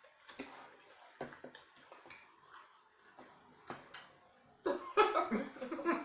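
Eating sounds: scattered small clicks and smacks of mouths and hands working through boiled seafood. Near the end comes a louder stretch of voice-like sounds with no clear words.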